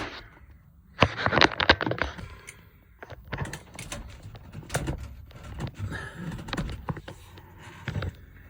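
A quick cluster of sharp clicks and knocks about a second in, then scattered lighter clicks and rustling: objects being handled and shifted about.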